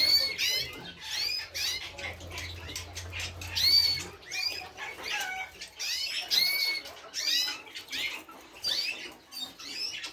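Birds chirping and squeaking: a dense run of short, high-pitched calls repeating several times a second.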